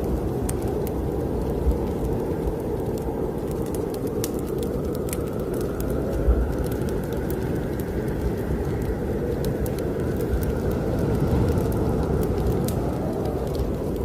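Snowstorm wind blowing in a steady low rush that swells slowly, with a wood fire crackling over it in many small, sharp pops.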